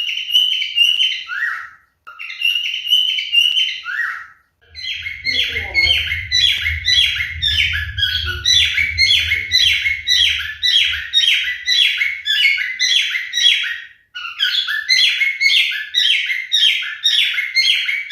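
Pied cockatiel singing: a fast run of repeated chirping whistles, about three notes a second, in phrases broken by short pauses. A low rumble sounds under the song for several seconds in the middle.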